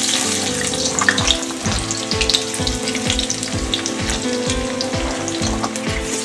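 Sliced bitter gourd (karela) sizzling as it goes into hot oil in an iron kadai: a steady hiss with scattered oil pops. Background music with a steady beat plays under it.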